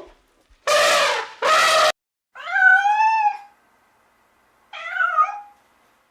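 Domestic cat meowing four times: two harsh calls close together, then two clearer meows that rise and fall in pitch.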